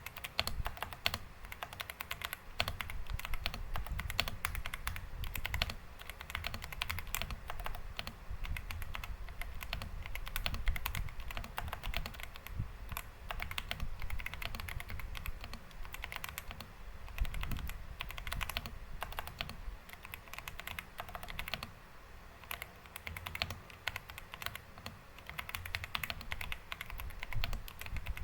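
Continuous typing on a Xinmeng M87 mechanical keyboard: a dense, irregular stream of key clicks, lighter for a few seconds toward the end.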